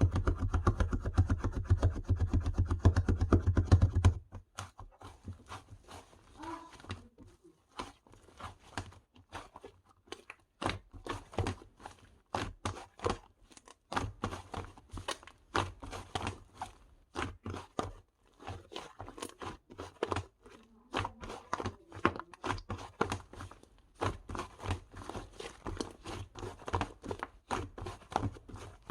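A dense, rapid run of small clicks over a low rumble for about four seconds, then a long series of irregular small clicks, crackles and taps.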